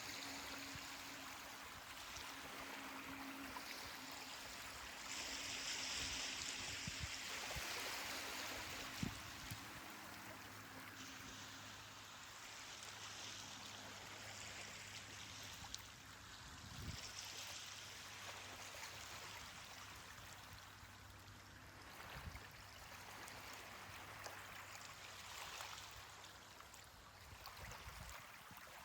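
Faint surf: small ocean waves washing onto a beach, a steady hiss that swells and eases every several seconds.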